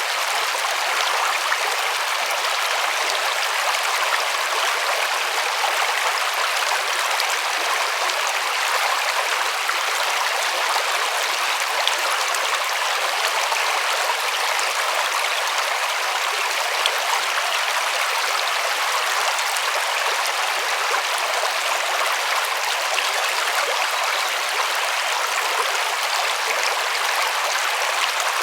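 River water flowing and rippling steadily, a continuous rushing hiss with no low rumble.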